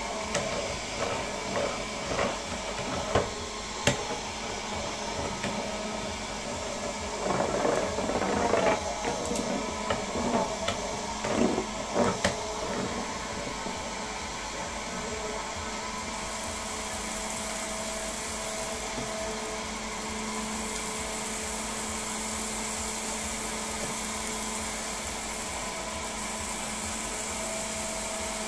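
Homemade vacuum cleaner's small DC motor running with a steady whine. Irregular clicks and rattles over the first half give way to an even run with more hiss.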